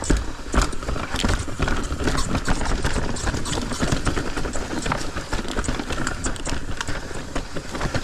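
Mountain bike riding down a rough dirt trail, with many irregular knocks and rattles from the bike and tyres over rocks and roots, over a steady low rumble.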